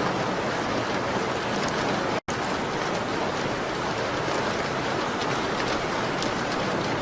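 Steady rain on a window: a dense, even hiss with faint scattered ticks. The sound cuts out completely for an instant about two seconds in.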